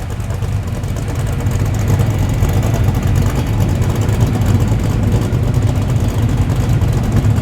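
A car's engine running at low speed as the car rolls in, a deep steady note that gets a little louder about a second and a half in.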